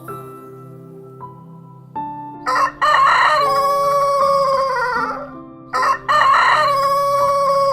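Rooster crowing twice, the first crow about two and a half seconds in and the second near six seconds, each ending in a long drawn-out note that falls away. Soft piano music plays underneath.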